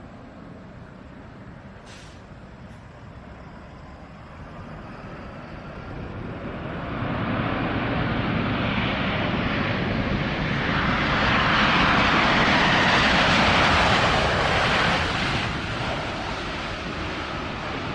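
Jet airliner passing close by: the engine noise builds from about four seconds in, is loudest a little past the middle, then slowly fades.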